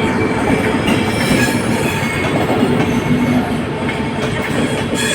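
Passenger express train running on the track: a loud, steady rumble of wheels on rails with a faint squeal of the wheels on top.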